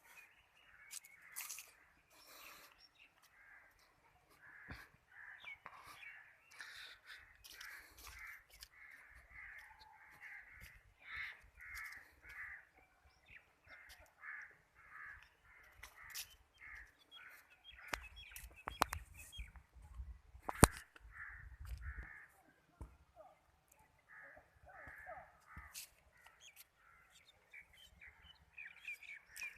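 Crows cawing, a long run of short calls one after another at about two a second. A few sharp clicks and a low rumble come about two-thirds of the way through.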